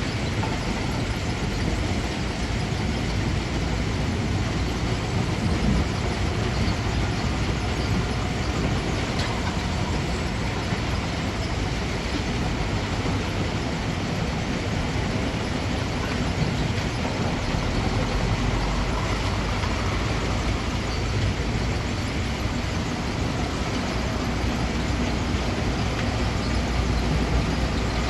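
Heavy quarry machinery at a stone crusher running steadily: a continuous mechanical din over a deep rumble, the rumble growing stronger about two-thirds of the way in.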